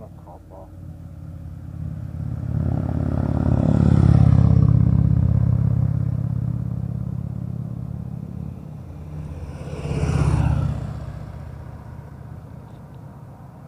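Motorcycles riding past on a road: one passes, loudest about four seconds in and then slowly fading away, and a second passes more quickly about ten seconds in.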